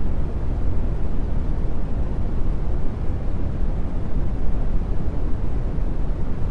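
Steady brown noise: an even, deep rumbling hiss, strongest in the low end and thinning toward the highs, with no rhythm or events.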